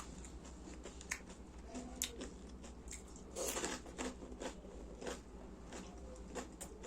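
Close-miked eating: chewing and crunching of crisp food with scattered small mouth clicks, and one louder crunch about three and a half seconds in.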